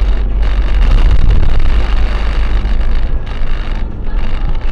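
Car driving, with a loud, steady rumble of engine, road and wind noise picked up by a dashcam microphone; it dips briefly a few times.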